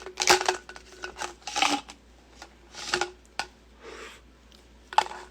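A series of short rustling and rubbing sounds close to the microphone, like things being handled near a phone.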